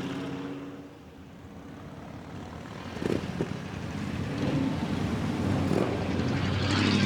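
Car engine and exhaust fading as one car pulls away, then another car's engine growing steadily louder as it approaches, with a few short knocks about three seconds in.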